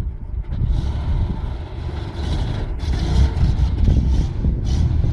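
Scania truck's diesel engine running steadily, with a rushing hiss over it from about a second in until near the end.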